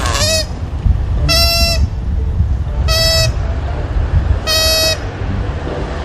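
Koala bellowing: a continuous deep rumble broken by four short, honk-like calls about a second and a half apart.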